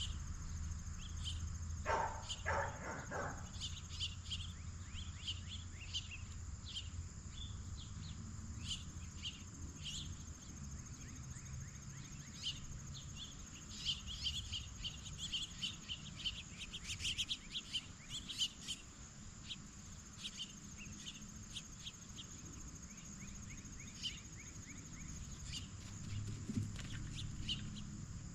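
Outdoor wildlife ambience: small birds chirping in short repeated notes over a steady, high drone of insects. A few louder, harsher calls come about two seconds in.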